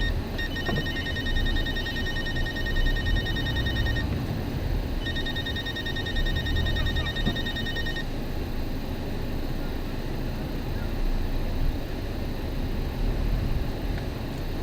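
An electronic telephone ringer trilling in two bursts, about three and a half seconds and then three seconds long with a one-second gap, over a steady low rumble.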